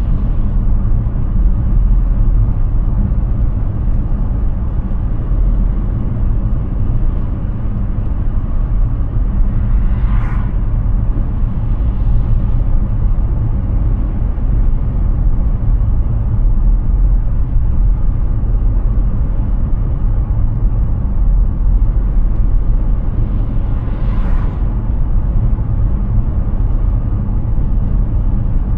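Steady low road rumble and tyre noise from a Hyundai Ioniq 6 electric car driving on a highway, with no engine note. Two brief hissing swells come about ten and twenty-four seconds in.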